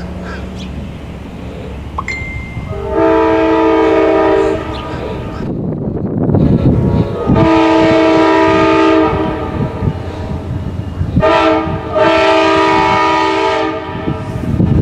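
Amtrak P42DC locomotive's Nathan K5LA five-chime horn sounding the grade-crossing signal: two long blasts, a short one, then a long one, over the low rumble of the passing train.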